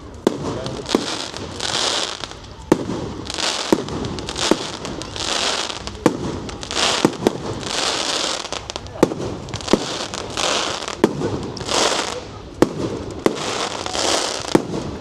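Fireworks display: aerial shells bursting one after another with sharp bangs, roughly one or two a second, between spells of crackling hiss.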